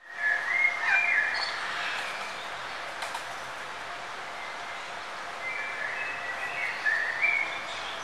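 Wild birds chirping and whistling in short calls, bunched in the first second or so and again near the end, over a steady background hiss of forest ambience.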